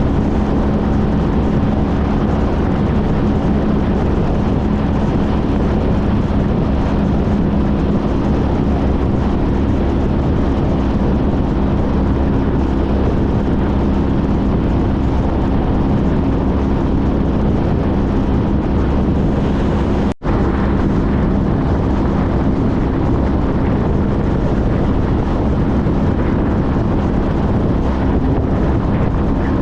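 Honda CTX1300's V4 engine droning steadily at cruising speed, with wind rushing over the microphone. The sound cuts out for an instant about two-thirds of the way through.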